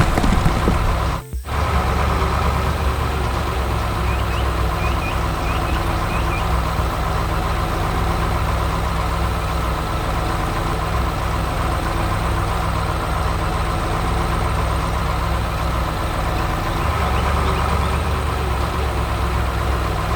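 Heavy diesel engine running steadily, with a short drop-out about a second in. The low rumble grows stronger near the end.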